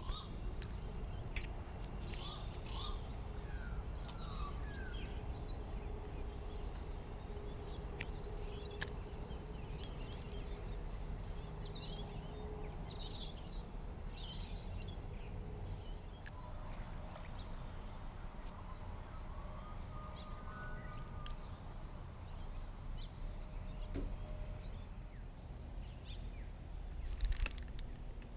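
Outdoor ambience at the water's edge: a steady low rumble with birds chirping now and then, most often in the first half, and a faint steady hum during the first part.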